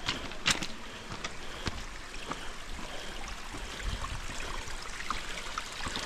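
Mountain creek running over rocks, a steady rush of water, with a few sharp clicks and knocks over it.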